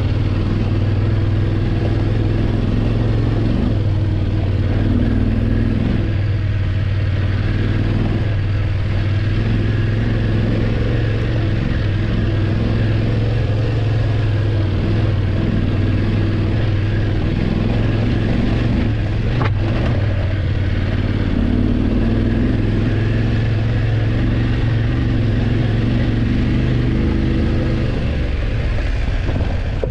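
BMW F850GS parallel-twin engine running steadily under way at an even pace, with a single brief click about two-thirds through; the engine note eases off near the end.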